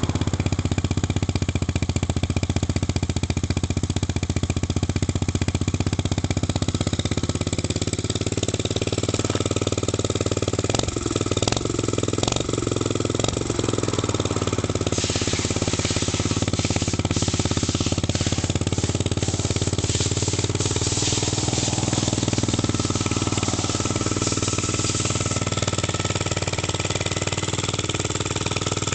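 KXD POR 50 small motorbike engine running steadily at idle. Its note wavers briefly about eleven seconds in, and a harsher hiss rides over it for about ten seconds in the middle.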